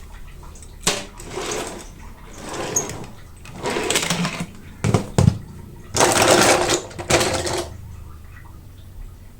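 Several bursts of rustling and tearing as toy-car packaging is pulled open, with a sharp knock about five seconds in. The longest burst comes a little after six seconds.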